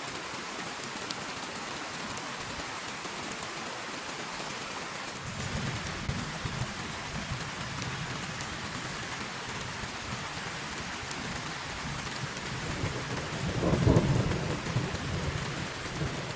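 Heavy rain falling steadily. About five seconds in, thunder starts rumbling low, building to a loud peak near the end before fading back.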